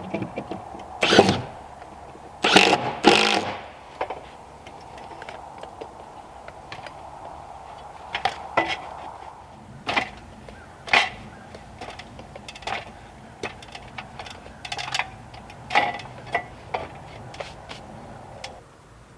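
Carpentry work on the cabin: a dozen or so sharp, irregular knocks and taps over a steady mechanical hum, which cuts off near the end.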